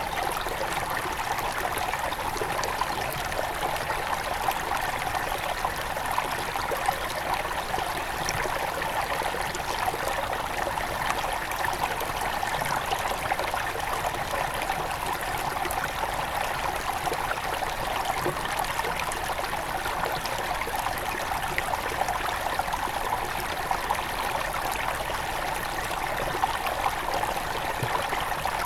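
Small river headwater flowing over stones: a steady babbling and trickling of water with fine splashy detail.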